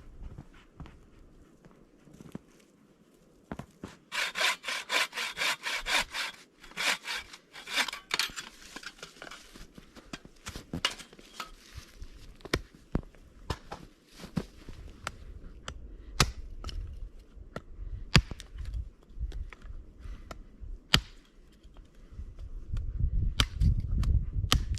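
Hand saw cutting through wood in quick, even back-and-forth strokes, about five a second, for several seconds; then scattered sharp clicks and knocks, and a low rumble near the end.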